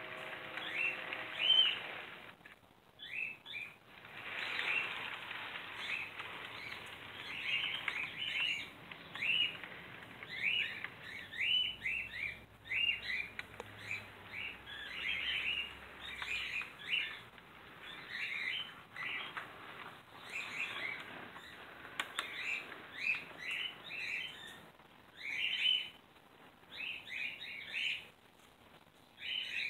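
Small birds chirping over and over: short rising chirps in quick, irregular runs.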